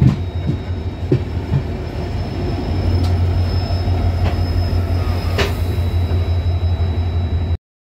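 Passenger train running on the rails: a steady low rumble with scattered sharp clicks and a thin, steady high-pitched wheel squeal. The sound cuts off suddenly near the end.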